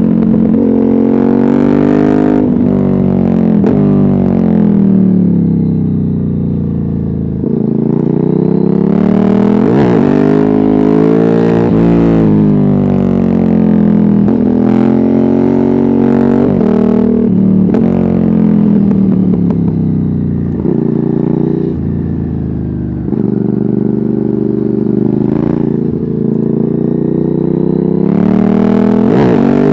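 Ducati Hypermotard 796's air-cooled L-twin engine through an open Termignoni exhaust with no dB killer, revving hard and easing off over and over, its pitch climbing through the gears and dropping back as the bike slows.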